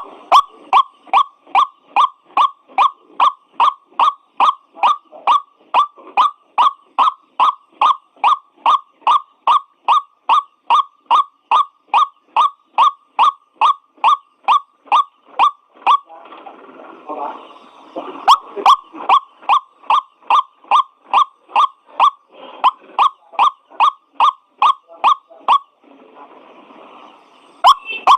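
White-breasted waterhen (ruak-ruak) calling: a long series of short, harsh notes repeated about two and a half times a second. The series breaks off about halfway through and again near the end, then starts up again.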